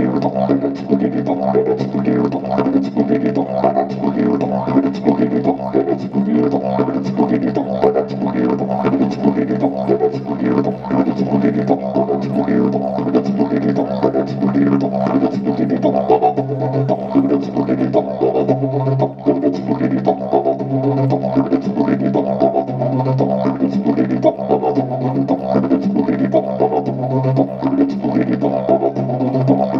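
Live music: a low, steady droning wind instrument with a fast rhythmic pulsing over it, and the drone itself swelling in regular beats in the second half.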